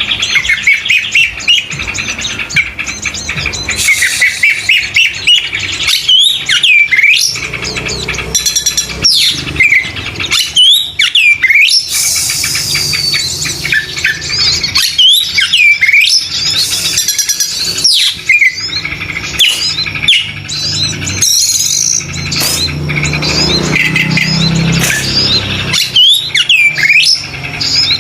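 Oriental magpie-robin (kacer) singing vigorously and without pause: a fast, varied run of loud whistled phrases full of repeated up-and-down sweeping notes, broken by short harsh notes.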